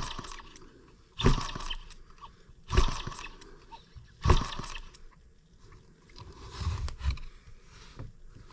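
Small M25 sideshaft engine being turned over four times, about every second and a half, each a short sharp sound that trails off, without catching. The engine is flooded.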